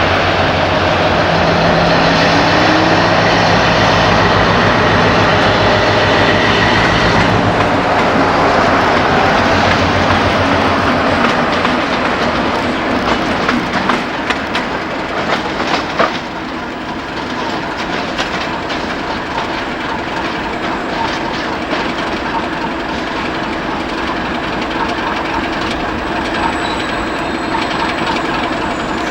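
Brush Class 60 diesel locomotive passing under power, its Mirrlees engine giving a steady drone that fades after about ten seconds. The freight wagons behind it follow, clattering and knocking over the rail joints.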